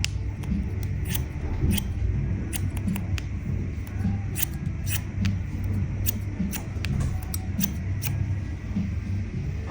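Barber's scissors snipping hair: a run of crisp, irregular snips, about one or two a second.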